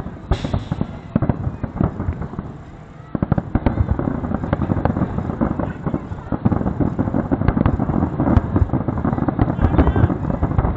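Aerial fireworks finale: a rapid barrage of shell bursts and crackling. After a short lull about two seconds in, the bangs come thick and fast without pause.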